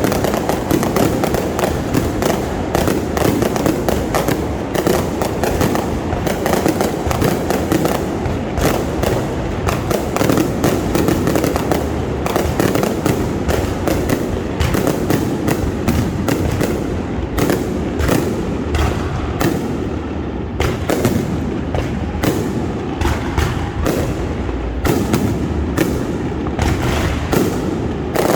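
Fireworks display at full intensity: a dense, continuous barrage of bangs and booms overlapping with little pause, typical of a grand finale.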